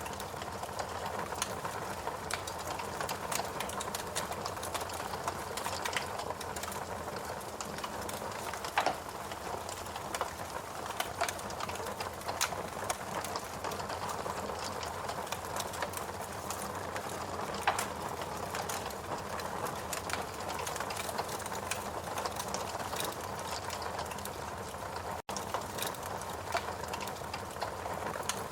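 Fireplace crackling: irregular small pops and snaps over a steady hiss. The sound cuts out for an instant a little before the end.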